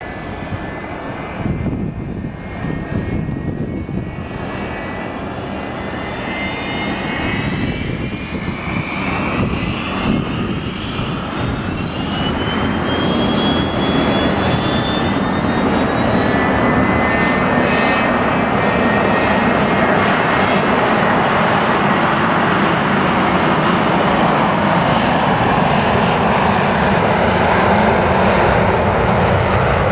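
McDonnell Douglas MD-81 jet airliner's twin rear-mounted Pratt & Whitney JT8D turbofans spooling up for takeoff: a whine rises in pitch over several seconds, then holds steady while the engine noise keeps growing louder.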